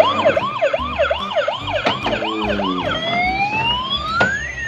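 Toy fire truck's electronic siren: a fast up-and-down yelp, about three cycles a second, that changes about three seconds in to a slow wail rising and then falling.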